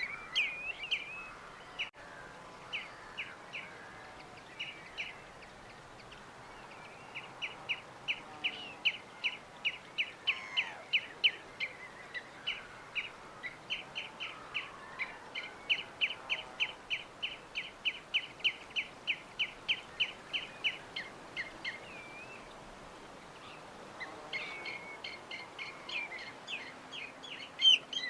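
Songbird chirping in long runs of short, quick, evenly repeated notes, about three or four a second, pausing for a few seconds near the end before starting again, over a faint steady background hiss.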